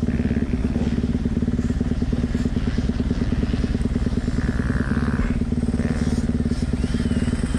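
Dirt bike engine running at a fairly steady speed, its firing pulses close and even.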